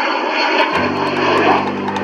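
Jet noise of a Cessna 510 Citation Mustang's twin turbofans on departure, an even rush with a thin steady high whine. About three-quarters of a second in, a sustained low musical note joins it.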